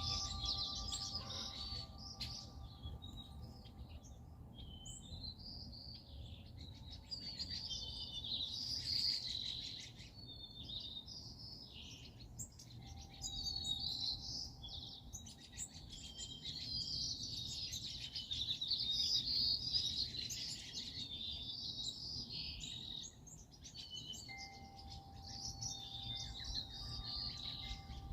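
A chorus of songbirds, several chirping and trilling at once in quick overlapping high calls, without a break. A faint steady whine can be heard under them at the start and again over the last few seconds.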